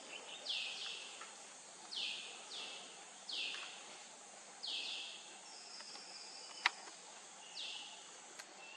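A bird giving short, high, down-slurred calls, about seven of them at uneven intervals of one to two seconds, over a steady high hiss. One sharp click comes about two-thirds of the way through.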